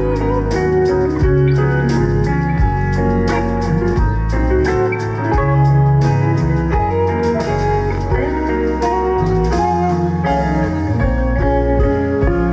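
Live band playing an instrumental passage of a ballad, without vocals: a steady bass line under sustained chords, with regular drum and cymbal hits.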